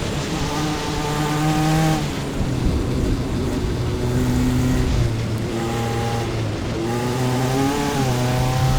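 Single-seater race car's engine heard onboard at racing speed, holding steady notes that step down and back up several times as gears change, over wind and road noise.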